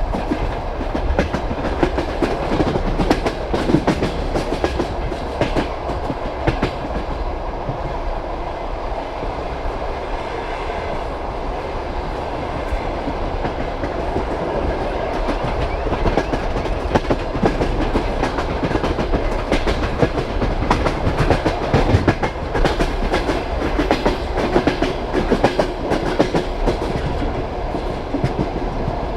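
Passenger railway carriage rolling at speed, its wheels clacking over rail joints with a steady rumble underneath. There is a smoother, quieter stretch with fewer clacks around ten seconds in.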